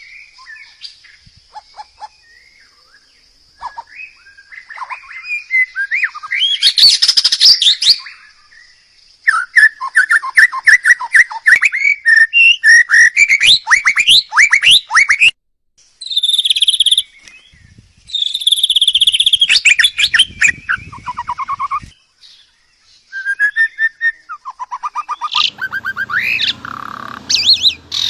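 Songbird singing loudly in long, varied phrases of rapid whistled sweeps and fast trills, broken by short pauses.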